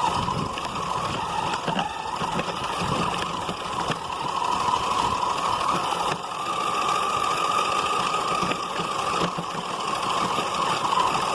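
Radio-controlled car's motor running, a steady whine that steps slightly higher in pitch about six seconds in.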